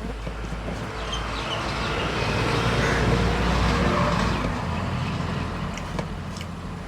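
A motor vehicle passing by, its noise swelling to a peak about three to four seconds in and then fading away.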